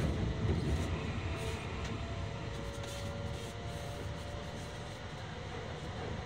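Steady low rumble of a Tohoku Shinkansen Hayabusa train heard inside the passenger car as it runs along the track, with a few faint whining tones above it.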